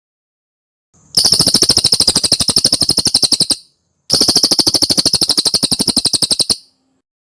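Cililin bird singing: two fast trills of rapidly repeated high chirping notes, about a dozen a second, each lasting about two and a half seconds with a short gap between, starting about a second in.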